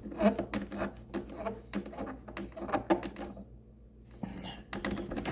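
Plastic blower-tube parts and tools being handled on a workbench: scattered clicks and knocks, with a brief quiet gap about three and a half seconds in.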